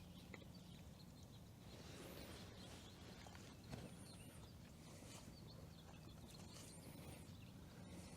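Near silence: faint outdoor quiet with a few brief high bird chirps and a steady low hum.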